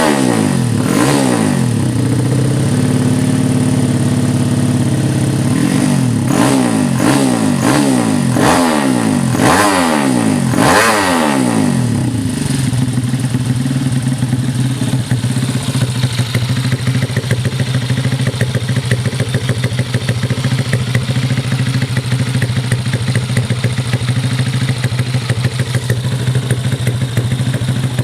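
Fuel-injected drag-bike motorcycle engine revved in a series of quick blips, with one rev held for a couple of seconds, then dropping about twelve seconds in to a steady idle.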